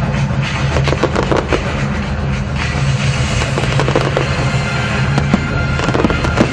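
Aerial fireworks bursting in quick succession, a run of sharp bangs and crackling, over music playing along with the show.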